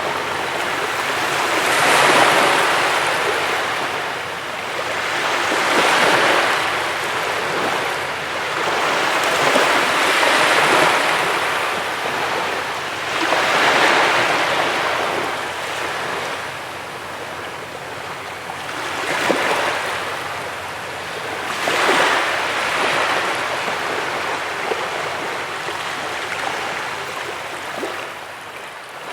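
Ocean waves breaking and washing up a beach, each surge swelling and fading about every four seconds.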